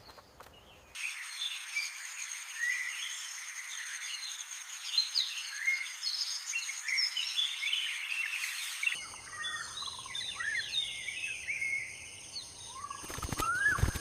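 Ambience of many small birds chirping and twittering, over a steady high-pitched insect whine. Near the end come a few short, rising whistled calls.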